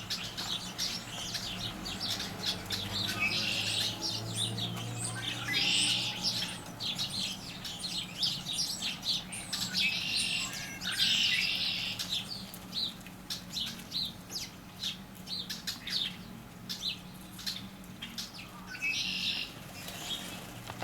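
Backyard songbirds chirping and calling: many short chirps throughout, with several louder, harsh, noisy calls about a second long.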